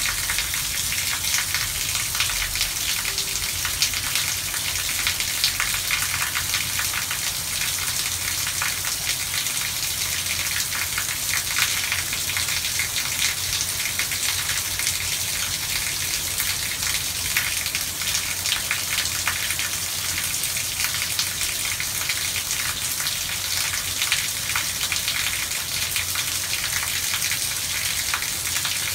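Heavy rain falling steadily: a dense hiss of drops on pavement, lawns and standing floodwater.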